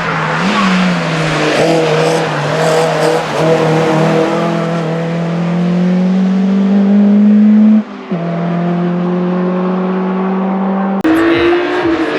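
A hillclimb race car's engine pulling hard under acceleration, its pitch climbing steadily, then dropping sharply with a gear change about eight seconds in before pulling again. Near the end the engine sound changes abruptly.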